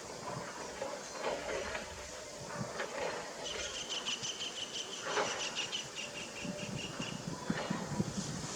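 A bird calling a fast run of short, high chirps, several a second, starting a few seconds in and lasting about three and a half seconds, over low background rumble.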